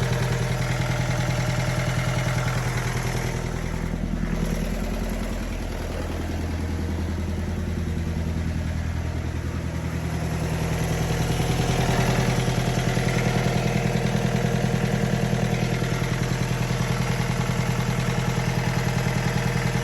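Kubota diesel engine of a Bobcat 7753 skid steer running steadily, easing off slightly a few seconds in and picking up again about twelve seconds in.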